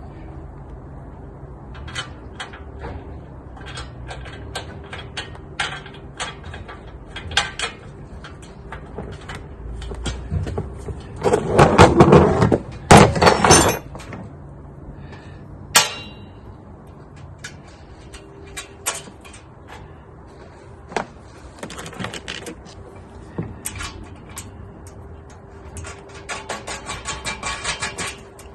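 Metal clinks and knocks of nuts, bolts and steel stand-leg parts being handled and fastened together, with a loud clatter about midway and a quick run of rattling clicks near the end.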